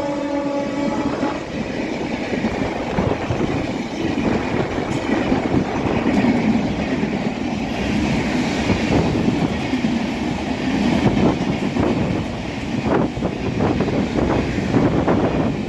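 Express train passing at speed close by, a loud continuous rumble and rattle of wheels over the track with irregular clanks; its horn is just fading out in the first second.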